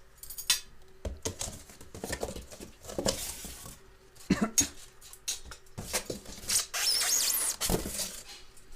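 Packaging and parts of a boxed oil-filled radiator being handled: scattered knocks and clicks, with a longer rustle of packing material about seven seconds in.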